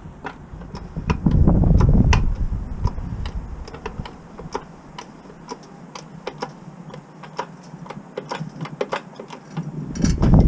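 A run of sharp, irregular clicks and ticks, like metal tools being worked by hand. Wind buffets the microphone about a second in and again near the end.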